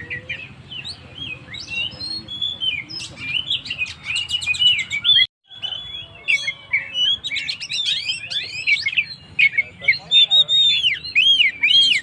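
Oriental magpie-robin (kacer) singing in full song: a fast, varied run of short whistled notes and chirps, with a brief break about five seconds in.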